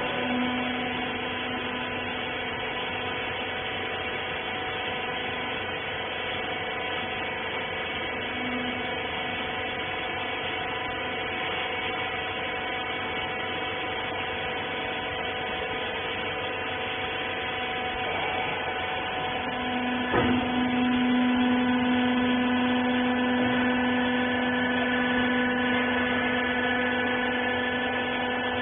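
Wiper baler's electric hydraulic power unit running with a steady multi-tone hum. About 20 seconds in there is a click, and the hum grows louder and lower-toned, as the press takes up load.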